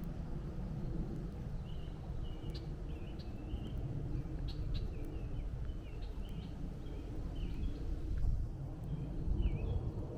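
Birds calling with many short, slurred notes over a steady low rumble of distant highway traffic.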